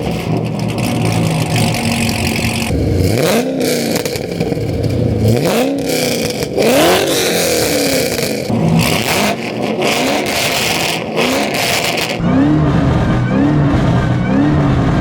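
Chevrolet Camaro ZL1's supercharged 6.2-litre V8 free-revving through a modified exhaust, each rev rising and dropping back. Near the end comes a quicker run of short blips, about one a second.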